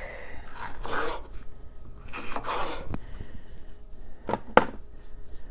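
Kitchen food-prep handling noises as peppers are readied for a sheet pan: two scraping rubs, about a second in and again a second and a half later, then two sharp taps near the end.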